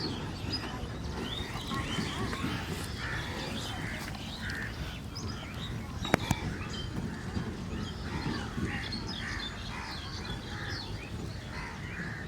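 Many birds calling outdoors in short repeated calls, over a low background rumble, with one sharp click about six seconds in.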